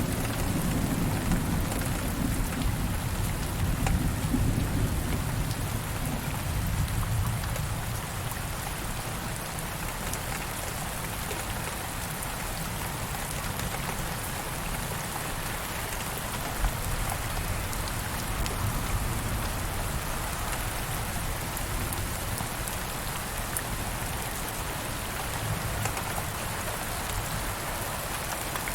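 Steady rain falling, with a low rumble of thunder in the first several seconds that fades away.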